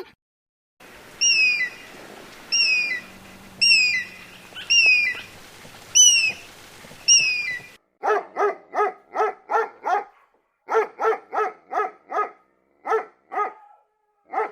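Animal calls in two parts: first a short high call that falls in pitch, repeated about once a second, then, after a cut about eight seconds in, runs of short, rapid barks or yaps.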